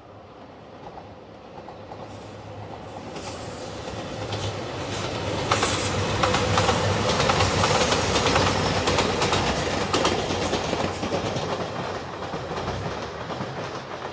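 JR Shikoku 2700 series diesel limited express train passing. The sound grows as it approaches, peaks about halfway through with rapid clickety-clack of wheels over rail joints, then fades as it moves away.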